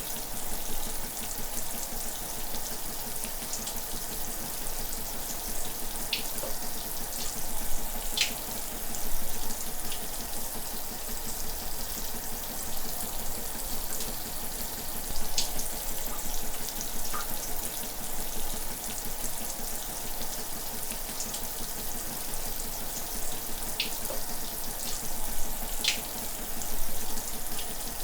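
Shower running steadily, a dense hiss of falling water with a few brief splashy ticks scattered through.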